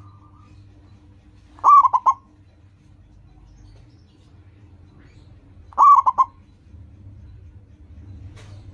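Zebra dove (perkutut) cooing: two short song phrases about four seconds apart, each a first note followed by a quick run of short notes, over a faint steady low hum.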